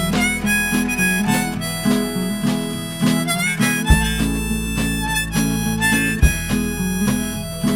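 Harmonica playing a melody of held notes over strummed acoustic guitar: an instrumental break in a folk-blues song.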